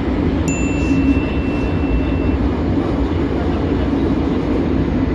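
Bucharest metro train running, a steady low rumble heard inside the carriage. About half a second in, a thin high whine sounds for about two seconds.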